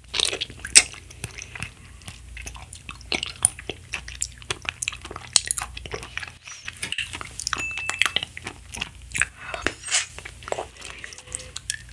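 Close-miked chewing and biting of an edible pink jelly cup made from peach drink and konjac powder: a steady stream of irregular small clicks and smacks from the mouth.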